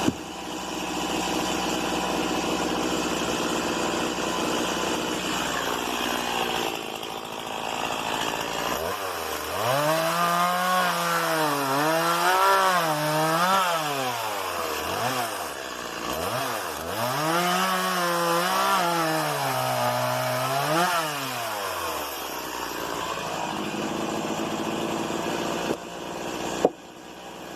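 Stihl MS 170 two-stroke chainsaw running, then cutting wood in two long stretches from about nine seconds in, its engine pitch repeatedly sagging and recovering under load. It then drops back to a lower, steadier run. A single sharp knock comes near the end.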